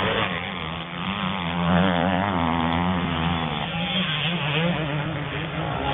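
Motocross motorcycle engines revving, the higher engine note wavering quickly up and down over a steady lower engine drone.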